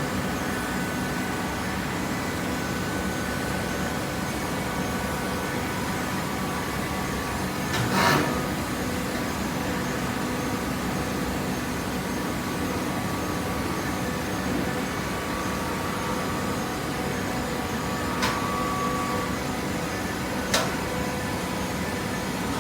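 Hydraulic baling press running with a steady hum that carries a few fixed tones, with a louder knock about eight seconds in and two sharp metallic clicks near the end.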